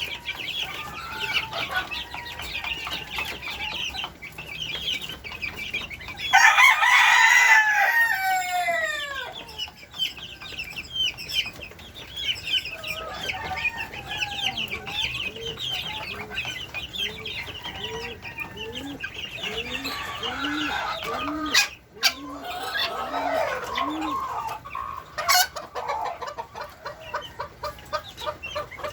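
Chickens in a coop: a rooster crows once loudly about six seconds in, and a hen then gives a long, even run of low clucks, over constant high twittering. A couple of sharp clicks come near the end.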